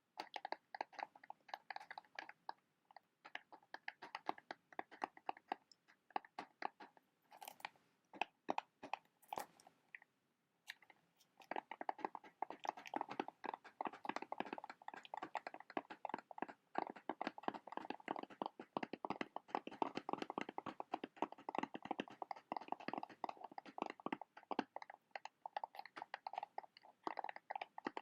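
Rapid fingernail tapping and scratching on a matchbox, a dense run of small clicks, in short bursts at first and then almost without a break from about eleven seconds in.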